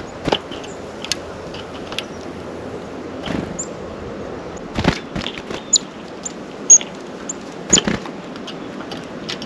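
Birds at a feeder: scattered sharp taps and knocks of birds landing and pecking close to the microphone, with a few short high chip notes, the loudest about two-thirds of the way in, over a steady outdoor hiss.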